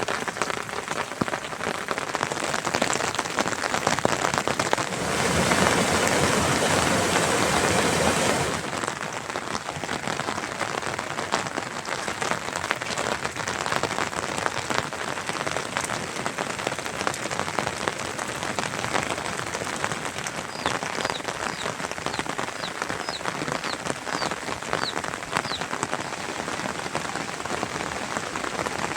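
Steady rain falling, with many individual drops ticking on surfaces. About five seconds in, it grows louder and denser for roughly three seconds, then settles back.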